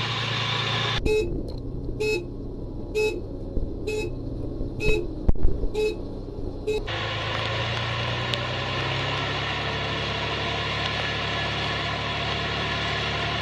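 A toy vehicle's electronic sound effects: a steady recorded engine hum, with short repeating beeps about once a second for several seconds, and a few knocks among them.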